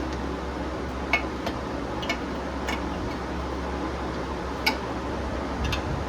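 Six or so sharp, irregular metal clicks and clinks as a torque wrench and socket are worked onto the drive shaft nut of an outboard lower unit, over a steady fan hum.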